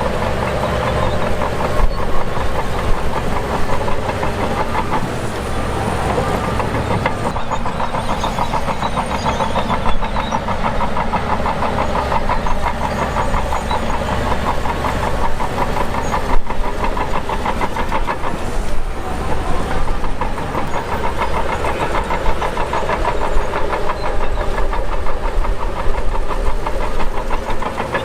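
Shantui DH17 bulldozer working as it pushes dirt: its diesel engine runs steadily under load with a fast, even clatter, and there are a few brief louder knocks.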